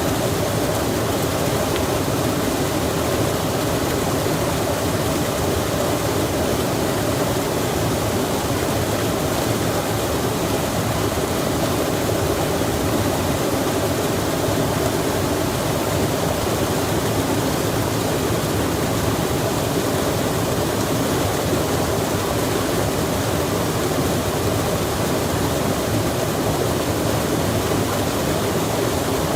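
Rain falling beside a flowing stream: a steady, even rush of water with no breaks or single drops standing out.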